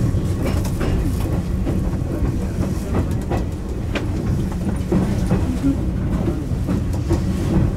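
Electric commuter train running, heard from inside the front car: a steady low motor and running hum with scattered clicks of the wheels over rail joints and points.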